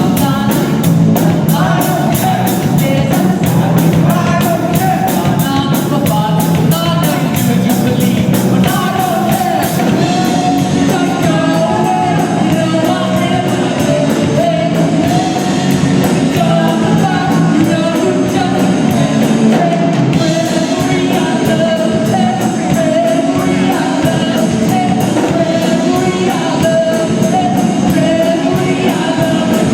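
Live rock band playing an original song: a lead singer over electric guitar, bass and a drum kit, with rapid, steady cymbal strokes and a sustained sung melody.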